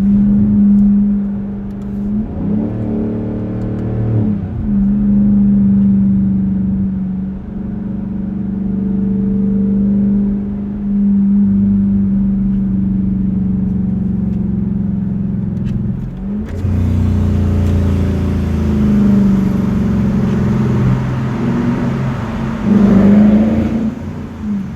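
Straight-piped 2021 Dodge Durango R/T's 5.7-litre HEMI V8 exhaust droning at highway cruise, rising and falling in pitch several times as the revs change. About sixteen seconds in, a hiss of wind and road noise comes in suddenly over it.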